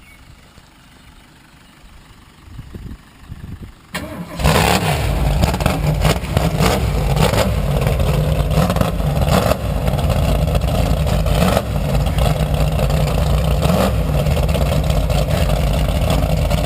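Ford Cleveland V8 cranking over and firing up about four seconds in, then running loudly at idle with a few short blips of the throttle.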